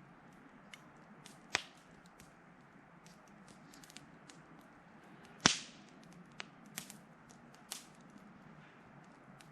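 Wood fire crackling, with scattered small snaps and two louder sharp pops, about a second and a half in and again about five and a half seconds in.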